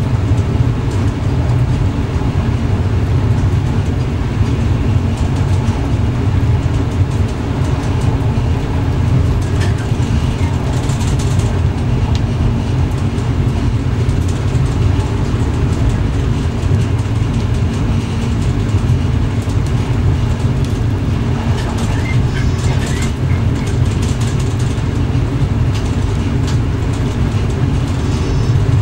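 Steady running noise of an X11 electric multiple unit heard from inside the driver's cab: a constant low rumble with a steady hum. A few short higher-pitched noises come through, one near the middle and a few more about three-quarters of the way in.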